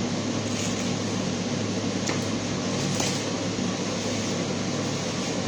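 Steady room noise: an even mechanical hum and hiss, with a couple of faint clicks about two and three seconds in.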